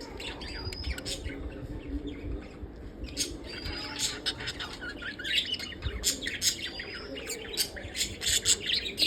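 Lovebirds chirping and squawking in a stream of short, sharp calls with a few brief rising whistles; the calls grow busier from about halfway through.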